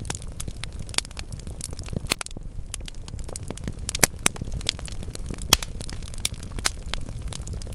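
Wood fire burning in a fireplace: logs crackling steadily over a low rumble of flame, with a few sharper pops, the loudest about four and five and a half seconds in.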